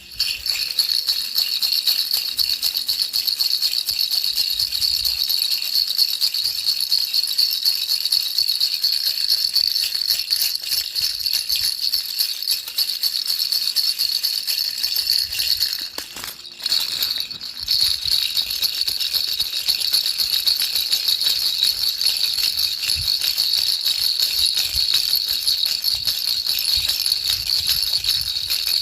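Baby rattle shaken continuously, a dense, bright rattling that stops for two short breaks about sixteen and seventeen seconds in.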